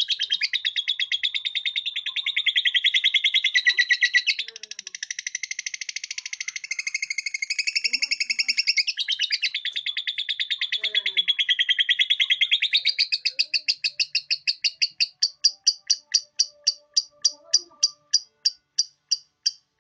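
Lovebird giving its long 'ngekek' song, a rapid, unbroken chatter of high notes. Over the last few seconds it slows into separate notes, about two a second, then stops.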